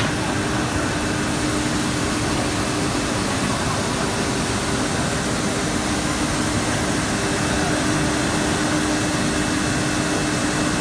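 Five-sided CNC drilling machine running: a steady mechanical hum and rush of air with a constant low tone.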